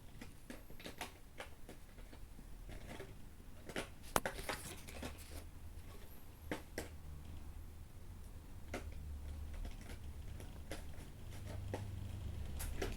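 Irregular small clicks and taps of cards being handled and set down, the sharpest about four seconds in, over a faint low hum.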